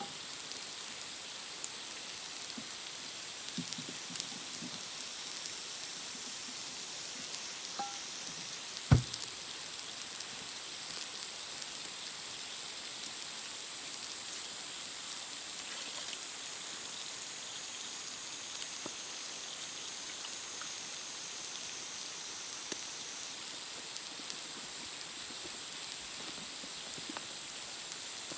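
Steak sizzling in a pan over a wood campfire: a steady, even hiss with faint scattered crackles. One sharp knock comes about nine seconds in.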